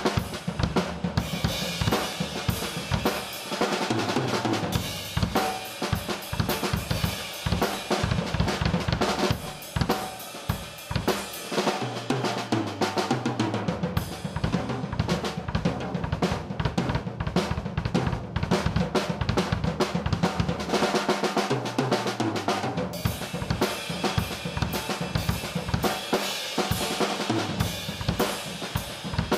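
1996 Pearl Export Select drum kit being played in a continuous groove: snare, bass drum, hi-hat and cymbals, with dense strokes throughout.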